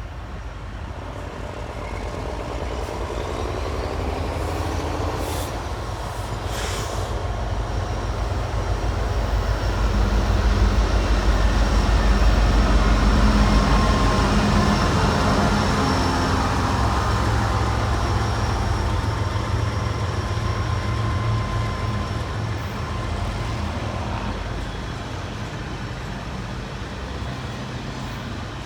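Union Pacific diesel locomotives pulling an intermodal stack train approach and pass, their engines drumming low and steady. The sound builds to its loudest about ten to fourteen seconds in, then slowly eases as the train rolls on.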